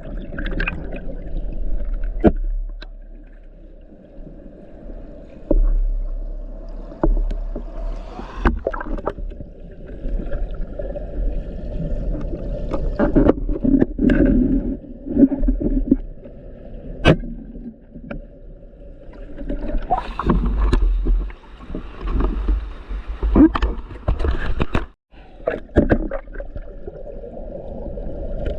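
Small boat on a river: a steady low hum with water noise and irregular sharp knocks throughout.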